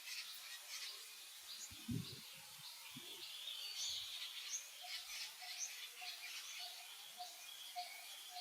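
Birds chirping in the background, many short high calls, with a lower note repeating about two to three times a second in the second half. A few soft low thumps come near the start.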